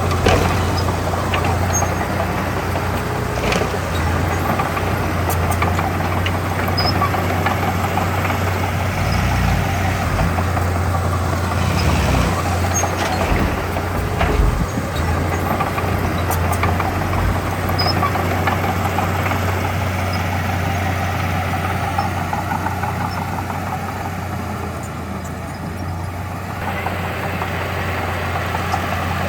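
Heavy diesel engines of earthmoving machinery running steadily with a low drone, with a few sharp knocks along the way.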